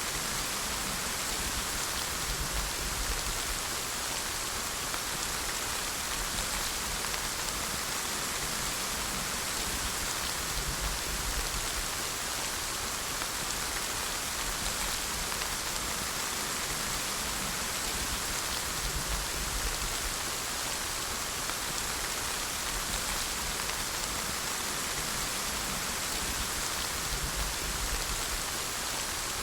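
Steady rain falling, a dense even hiss of drops on a surface.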